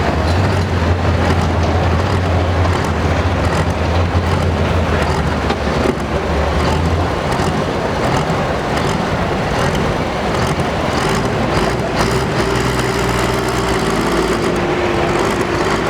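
Pro stock pulling tractor's diesel engine running steadily at low speed with a deep drone, which weakens about seven seconds in over a steady rush of noise.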